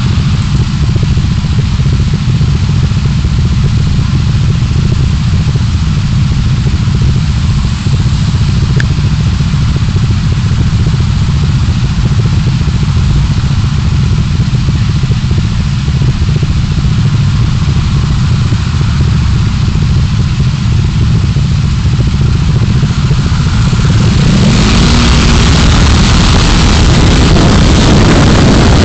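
A car's engine and road noise heard from inside, as a dashcam picks it up: a steady low rumble. About 24 seconds in, a broad hiss swells and the whole sound gets louder.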